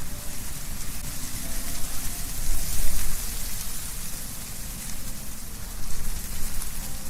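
Wind blowing through trees, with leaves rustling in a steady hiss over a low rumble. Gusts swell about two and a half seconds in and again near six seconds.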